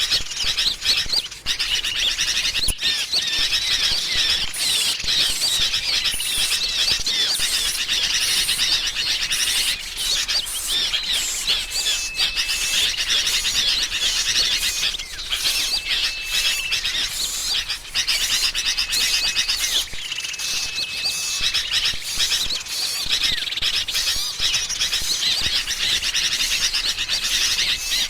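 Bird-lure recording of sooty-headed bulbuls chattering noisily, mixed with the chirps and twitters of small songbirds in a dense, unbroken chorus. Several steady whistled notes of about a second each recur through it.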